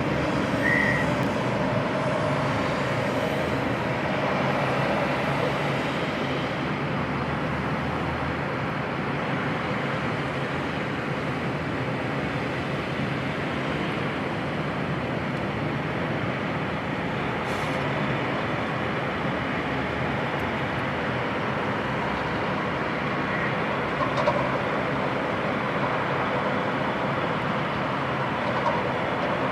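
Heavy diesel truck engines running steadily, a continuous low mechanical rumble with little change in level.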